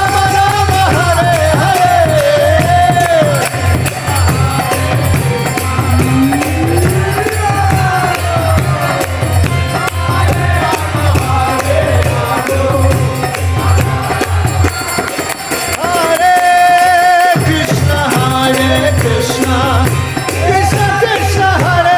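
Kirtan music: a steady low drum beat and jingling percussion under a melody that glides up and down. About three-quarters of the way through, the drum briefly drops out under a held note.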